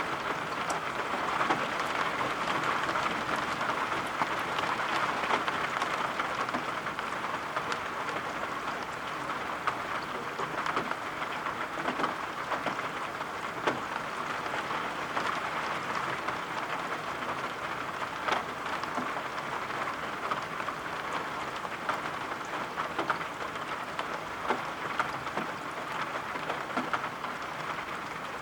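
Steady rain falling, with a dense hiss and many scattered sharp drop ticks.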